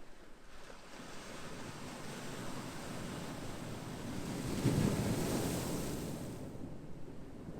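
Ocean surf: a wave swells, breaks about five seconds in with a hissing wash, then ebbs near the end.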